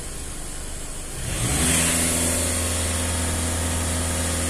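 Volkswagen Passat diesel engine at idle, revved up about a second in and held at high revs with a rush of exhaust hiss, the throttle pressed to blow through the particulate filter during on-car cleaning.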